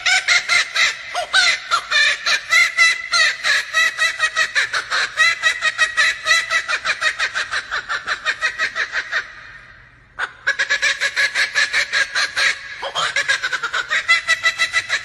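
Laughing kookaburra calling: a fast run of loud laughter-like notes, about eight a second, rising and falling in pitch. It fades off about two-thirds of the way through, breaks briefly, and the laughing starts again.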